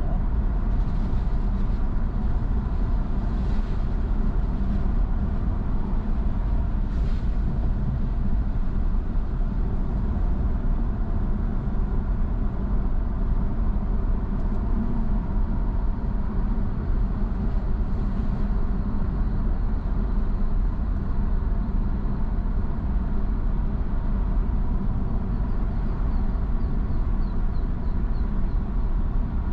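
Steady low road and engine noise of a car driving, with a few faint brief hisses in the first several seconds.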